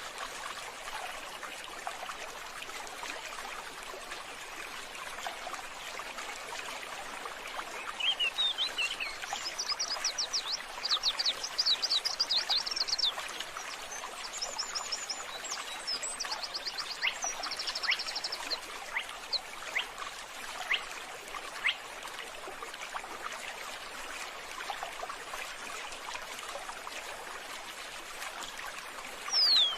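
Steady trickle of running water, with a small bird singing rapid high trills for about ten seconds from roughly a quarter of the way in, and a falling whistle at the very end.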